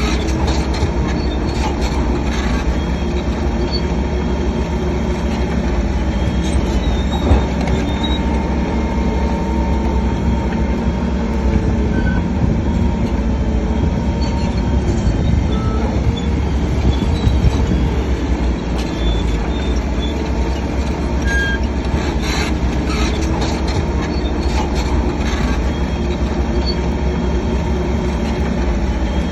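Shantui DH7C3 crawler bulldozer working: its diesel engine runs steadily under load while the steel tracks squeal and clank.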